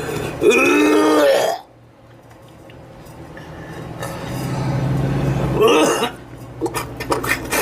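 A man gagging and retching, a loud strained vocal heave about half a second in and a shorter one near six seconds, with a few sharp clicks near the end.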